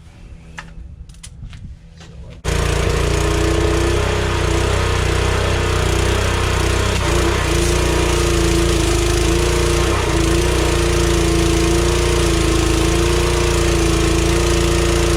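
Small gas engine of a DeWalt 3000 psi pressure washer running steadily and loudly, driving the pump. It comes in suddenly about two and a half seconds in, after a few light clicks and knocks.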